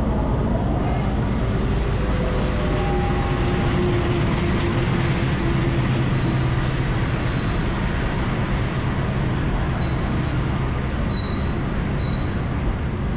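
Diesel locomotive hauling a local passenger train into the platform: its engine runs under the steady rumble of the carriages rolling past close by. Brief high squeals in the second half come as the train slows.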